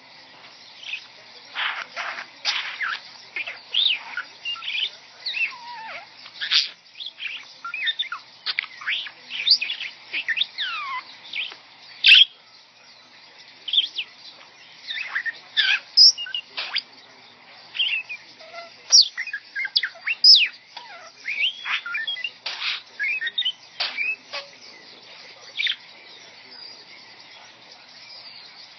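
Pet bird chattering in a fast string of whistles, chirps, squeaks and swooping pitch glides with brief pauses, an electronic-sounding, R2-D2-like babble.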